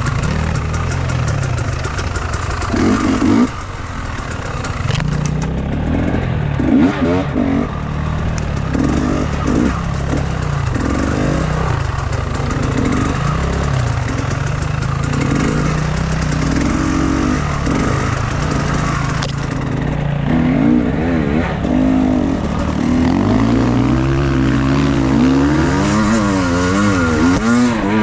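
Enduro motorcycle engine running under load, its pitch repeatedly rising and falling as the throttle is opened and closed.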